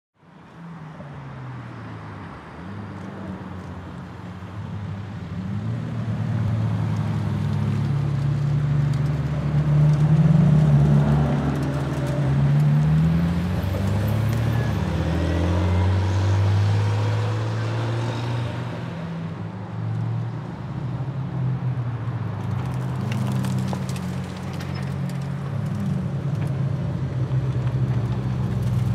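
Supercar engines running at low speed, their pitch rising and falling as they are revved and pull away, one after another. The sound fades in from silence at the start and grows louder.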